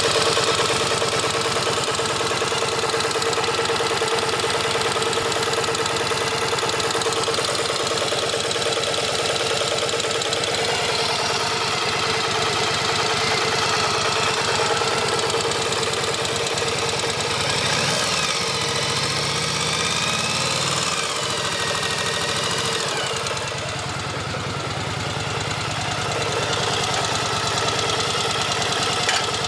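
1983 Yamaha XV750K Virago's air-cooled V-twin idling with a mechanical rattle, typical of a worn cam chain, with a brief change in pitch a little past halfway.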